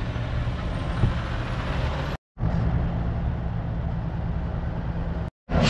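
Diesel truck engine idling steadily, with a low rumble and a short click about a second in. The sound cuts out abruptly twice, briefly.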